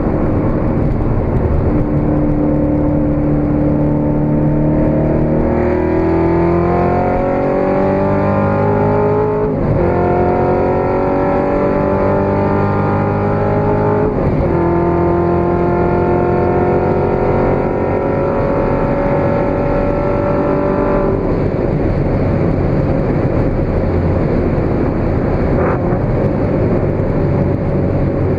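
Supercharged 6.2-litre LT4 V8 of a tuned Corvette C7 Z06 through a Capristo exhaust, heard onboard at autobahn speed: the engine pulls up through the revs, with upshifts about ten and fourteen seconds in, then holds a steady pitch. After about twenty seconds it eases off and wind and tyre noise take over.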